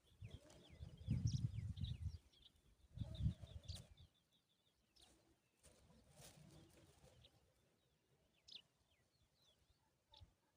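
Small birds chirping in many quick, short, falling chirps, thick at first and then only now and then. Low rumbling bumps are the loudest part during the first four seconds.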